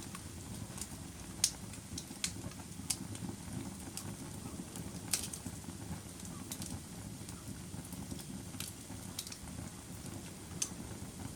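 Wood fire burning in a fireplace: a steady low rush of flames with irregular sharp crackles and pops from the burning wood, a couple of them louder.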